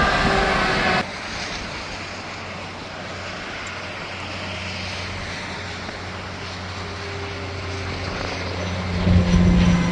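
Highway traffic: a loud passing-vehicle noise breaks off abruptly about a second in, followed by a steady low engine drone that grows louder near the end as a heavy vehicle approaches.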